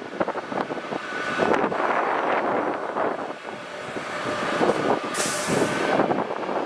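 Gusty wind buffeting the microphone in uneven swells, with a faint thin whine coming and going underneath.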